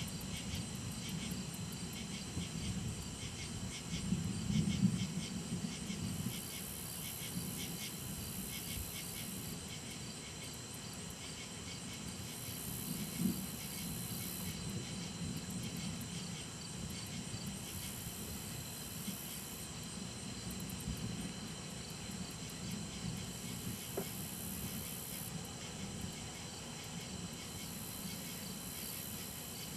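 Crickets and other insects chirring steadily, with a higher buzz that comes and goes every couple of seconds. Underneath, distant thunder rumbles low, swelling about four seconds in and again briefly near the middle.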